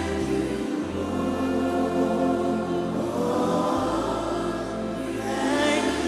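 Gospel worship music: a group of voices singing together over sustained keyboard chords, with long held bass notes that shift to a new pitch a few times.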